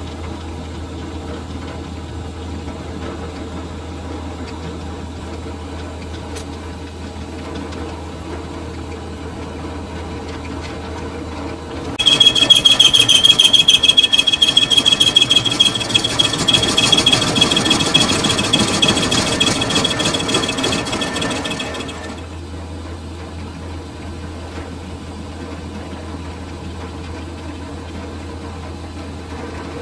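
A metal lathe running steadily. About twelve seconds in, a cutting tool engages the metal workpiece for about ten seconds, giving a much louder high, steady whine over a dense rattle. Then the cut stops and the lathe runs on.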